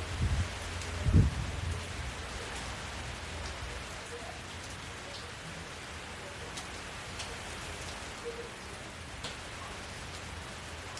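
Steady rain falling on hard surfaces, with scattered individual drips. Two brief low rumbles sound near the start, the louder about a second in.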